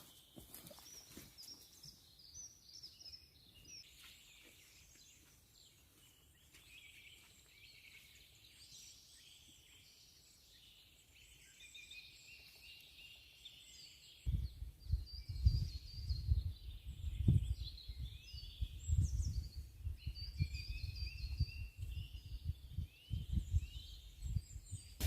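Several songbirds chirping and trilling. About halfway through, an uneven low rumble sets in and becomes the loudest sound.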